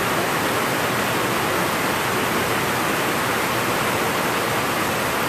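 Thunderstorm rain pouring down steadily, an even loud hiss with no thunder in it.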